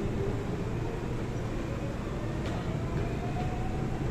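Seoul Metro 4000-series GTO-VVVF electric train running, heard from inside the car: a steady rumble of wheels on track. In the second half a faint motor whine rises slightly in pitch, with a single light click about two and a half seconds in.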